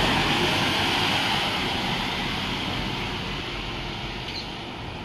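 Scania K230UB city bus driving away, its engine and tyre noise fading steadily.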